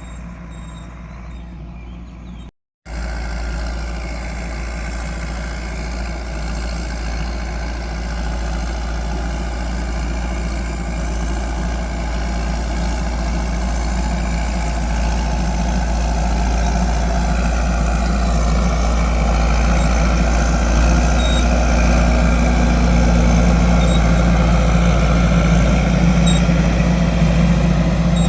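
Landini 9080 tractor's diesel engine running steadily while pulling a plough. The sound drops out for a moment about two and a half seconds in, then comes back louder and slowly grows louder still.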